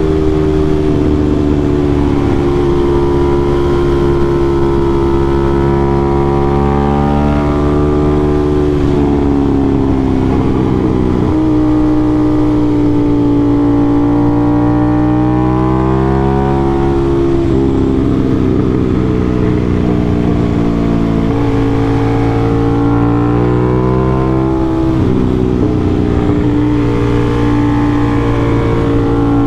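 Aprilia RS660's parallel-twin engine through an SC-Project CRT exhaust, ridden hard on a winding road. The pitch climbs and falls with the throttle and drops suddenly several times at the gear changes.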